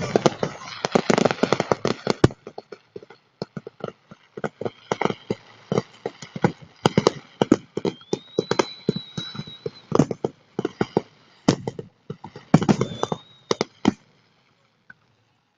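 Fireworks display: a dense, irregular run of bursts and crackling pops, with a high whistle twice. The bursts stop abruptly near the end.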